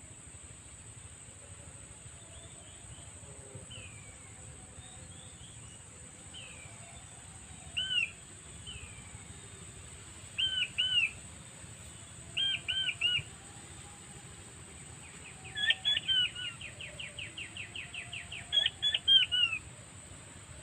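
Quail calling in short arched whistled notes, first singly, then in pairs and threes, then a fast run of about twenty notes near the end. A steady high-pitched hiss runs underneath.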